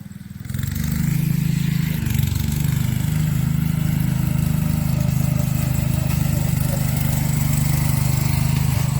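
Garden tractor engine running hard under load, coming up sharply about half a second in and holding a steady note, with a brief dip around two seconds in.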